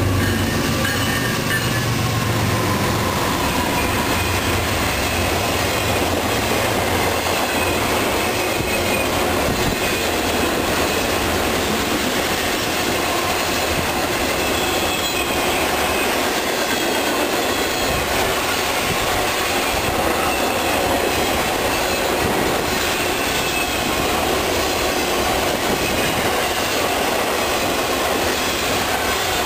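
A Norfolk Southern diesel-hauled intermodal freight train passing close by. The locomotives' engine rumble fades in the first couple of seconds, then a steady run of wheel-on-rail noise with faint high wheel squeals follows as truck trailers on flatcars roll past.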